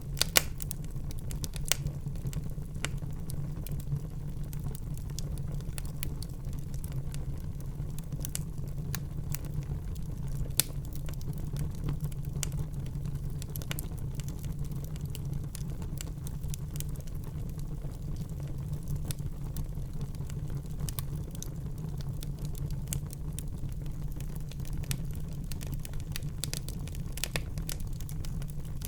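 Wood fire burning in a fireplace: a steady low rumble of flames with frequent sharp crackles and pops scattered irregularly, a few louder pops near the start and about a third of the way in.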